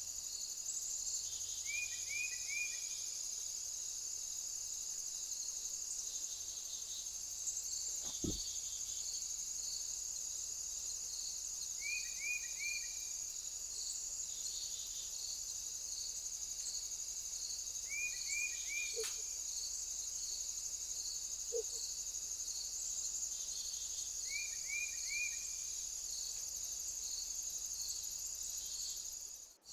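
Steady high-pitched insect chorus, with a bird's short call of three quick notes repeated four times, several seconds apart.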